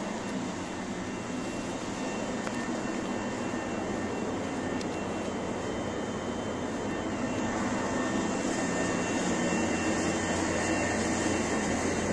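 Steady whirring drone of a Chichibu Railway electric train standing at the platform, its onboard air-conditioning and auxiliary equipment running, with a low hum under it. It grows a little louder over the second half.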